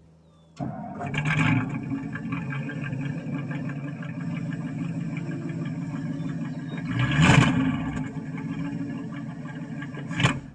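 1963 Ford Thunderbird's 390 FE V8 starting about half a second in and running through a quiet-type muffler on a single exhaust, with two brief rises in revs, then shutting off suddenly near the end. The owner says the accelerator pump isn't working well.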